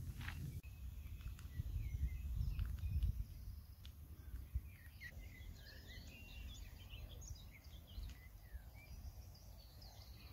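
Small songbirds singing, a busy run of short high chirps and trills from about four seconds in. Before that, a low rumble dominates.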